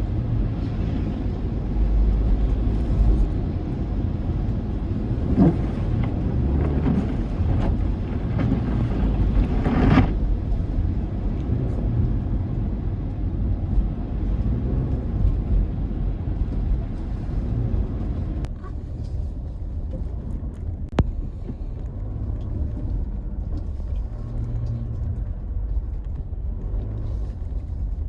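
Four-wheel-drive car driving on snowy, unplowed streets: a steady low rumble of engine and tyres, with a few knocks and thumps, the sharpest about ten seconds in.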